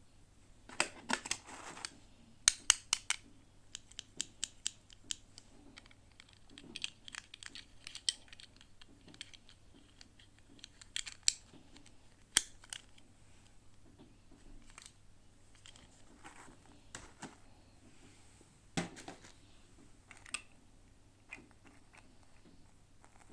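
Hands unboxing small toys: sharp, irregular clicks and short rustles of packaging, coming in clusters with quiet gaps between them.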